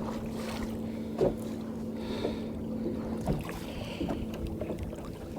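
Water sloshing against a small boat's hull as a fish is held in the sea to revive it, with a few short knocks about a second apart and a steady low hum underneath.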